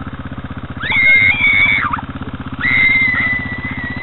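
Dirt bike engine idling with a steady, rapid low pulse. Over it, two long shrill tones of nearly even pitch sound: one about a second in and one starting near the middle that runs on to the end, each lasting about a second or more.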